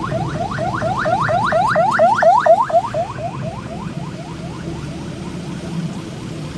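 An electronic alarm sounding a fast series of rising chirps, about four a second, swelling louder and then fading away about four seconds in, over a steady low engine rumble.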